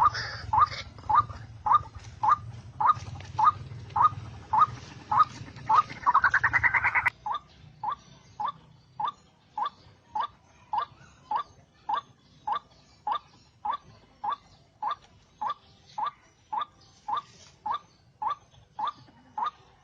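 White-breasted waterhen call: short rising 'ruak' notes repeated at an even pace, just under two a second. About six seconds in, a buzzy rising sound swells briefly and a low hum cuts off with it.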